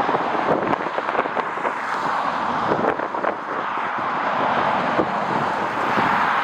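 Steady jet-engine noise of an airliner, with gusty wind crackling and buffeting on the microphone.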